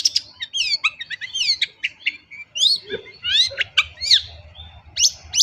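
Long-tailed shrike (cendet) singing a rapid, unbroken run of short chirps and quick rising and falling whistled sweeps, a song packed with imitations of other birds' calls.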